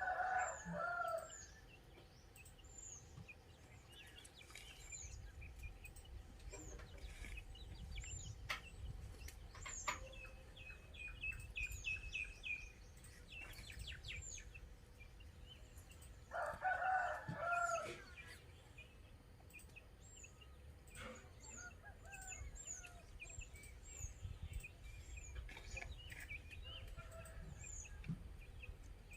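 A rooster crowing twice, about a quarter of a minute apart, each crow lasting a second or two. Small birds chirp with short high notes, over and over, throughout.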